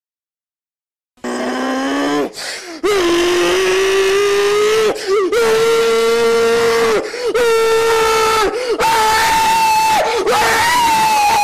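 A young man screaming at full volume in long, held yells broken by short gasps for breath, the pitch stepping higher and jumping about an octave near the end.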